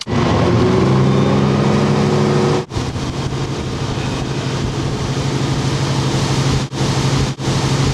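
Large mobile crane's diesel engine running loud at a steady pitch. It dips briefly about a third of the way in and cuts out for moments a couple of times near the end.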